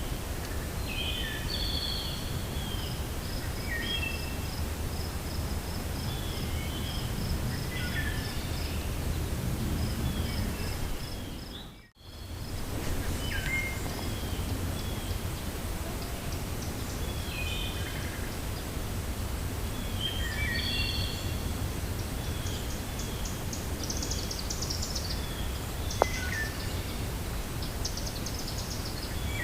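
Cold wind blowing steadily through a forest, with several birds singing short, repeated chirping phrases over it and a rapid high ticking trill in the first third. The sound briefly drops out about twelve seconds in, and a single sharp click comes near the end.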